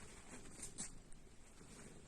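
Faint scratching and light tapping of kittens' paws and claws moving on a surface, with two sharp clicks close together a little over half a second in.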